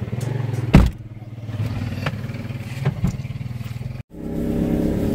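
Mitsubishi car's engine running steadily, heard from inside the cabin, with one loud knock about a second in and a few small clicks and knocks from handling. The sound cuts out for a moment about four seconds in, then the steady engine hum comes back.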